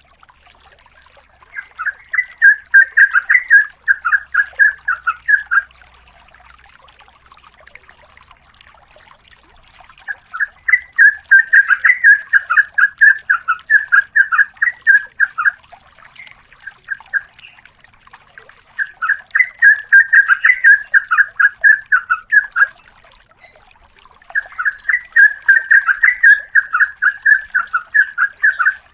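Yellow-vented bulbul (trucukan) singing long runs of rapid, repeated bubbling notes, several per second. It sings in four bursts of a few seconds each, with short pauses between them.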